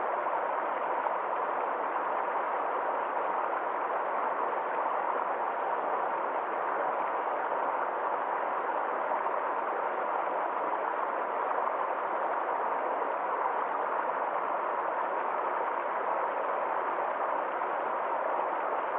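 Forest stream flowing, a steady, even rush of water with no changes.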